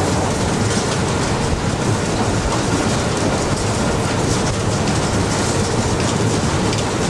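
Steady running noise of a locomotive at speed, heard from inside its cab: wheels on the rails, engine and rushing air blended into one continuous din.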